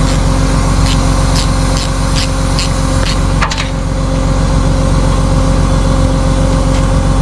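Tow truck engine idling steadily, with a row of sharp metallic ticks about two a second during the first half and one louder click about halfway through, from tightening the winch cable's set screws.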